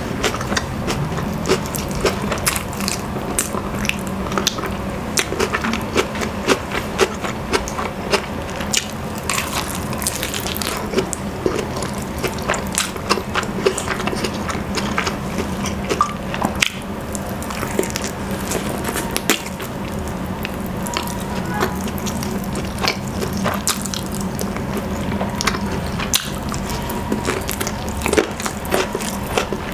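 Close-miked chewing of rotisserie chicken: a dense run of wet mouth clicks and smacks as meat is eaten by hand.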